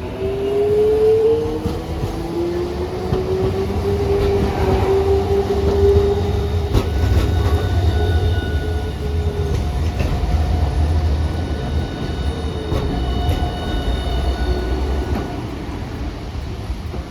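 Electric streetcar running on its tracks: a motor whine glides upward in pitch over a low steady rumble of wheels on rail, and thin high tones come in partway through.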